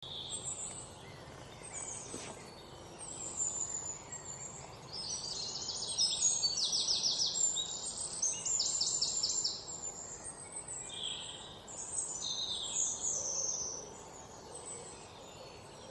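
Several birds chirping and calling over a faint steady hiss, with fast trilled runs of high notes that are loudest in the middle.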